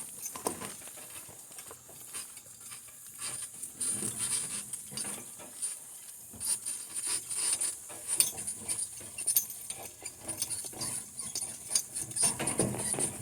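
Irregular clicking and rattling from a donkey team's cart and harness as the team walks on.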